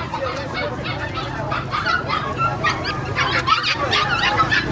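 Chickens clucking and squawking, many calls overlapping at once.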